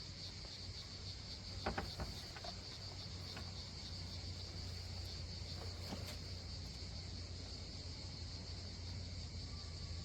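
Insects chirping in a steady, continuous high-pitched chorus, over a steady low hum, with a few faint clicks about two seconds in and again near six seconds.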